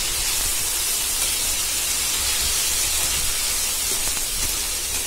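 Sliced onions and tomatoes sizzling in hot oil in a pan as they are stirred with a metal spatula: a steady hiss of frying.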